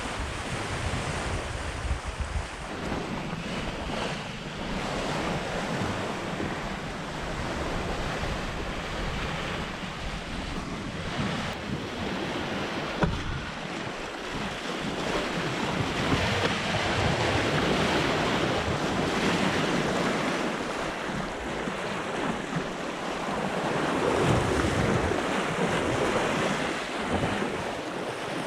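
Water washing along the hull of a Hallberg-Rassy 54 sailing yacht under way, with wind buffeting the microphone. The rush swells and eases, growing louder in the second half.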